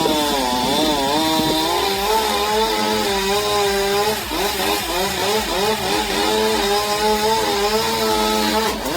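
Chainsaw engine running at high speed, its pitch repeatedly dipping and rising again as it loads up in the cut.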